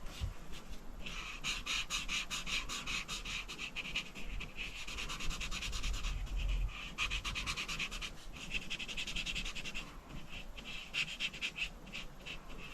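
Coloring strokes on paper: quick back-and-forth scratchy scribbling, several strokes a second, starting about a second in and running in bursts with short pauses, as an area of the page is shaded in.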